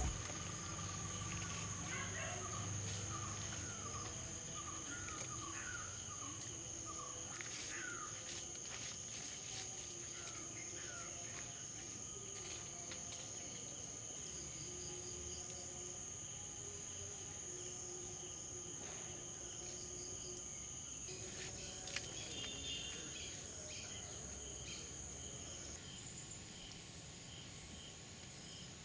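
Faint outdoor ambience: insects trilling steadily at a high pitch, with scattered bird chirps in the first half. The insect trill stops near the end.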